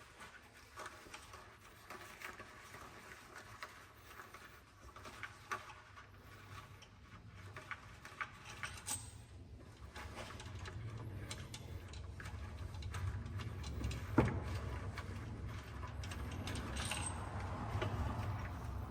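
Scattered light metallic clicks and clinks of hand tools and engine parts being handled during an engine bottom-end teardown, with one sharper knock about fourteen seconds in. A low rumble in the background grows louder from about halfway.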